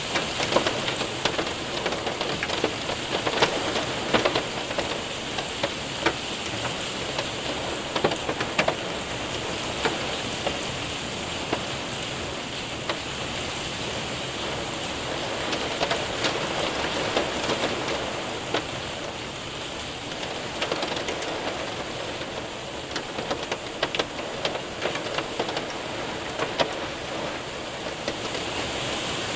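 Hail and heavy rain hitting a window and roof: a steady dense patter with sharp scattered ticks of hailstones striking.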